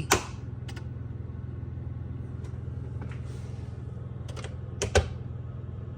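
Steady low machine hum with a few sharp clicks, the loudest a click and thump about five seconds in.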